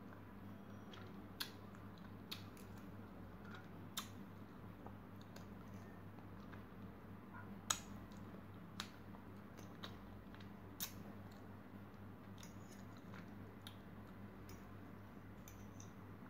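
Close-miked chewing of soft, ripe mango, with a handful of sharp clicks from the metal fork, the loudest about eight seconds in, over a steady low hum.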